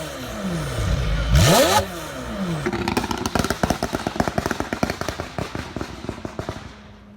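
A car engine revs hard, its pitch dropping and then shooting up with a loud burst about a second and a half in. A rapid run of exhaust crackles and pops follows, fading away over several seconds.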